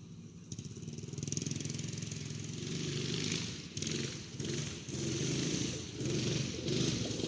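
The 212cc single-cylinder four-stroke engine of a Motovox minibike running while it is ridden, revving up and easing off several times with a rapid firing beat. It grows louder from about a second in and dips briefly a few times later on.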